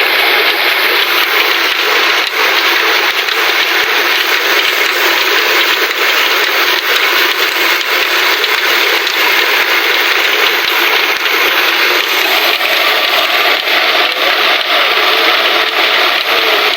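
Engine-driven stone flour mill (atta chakki) running: a loud, steady rattling grind from the mill and its old black diesel engine.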